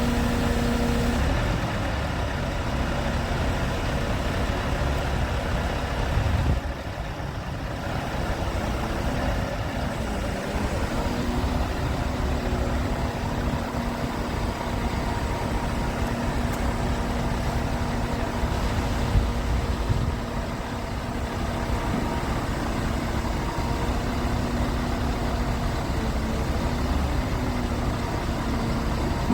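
Scania R580's 16-litre V8 diesel idling steadily, with a brief dip in engine pitch about ten seconds in. A single sharp knock sounds about nineteen seconds in.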